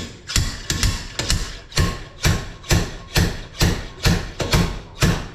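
Steady hammer blows on metal, about two a second, each with a short ring.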